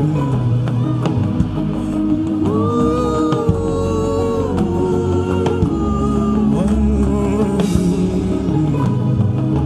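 Worship music with sung, held notes that slide between pitches over sustained keyboard chords and a light drum beat.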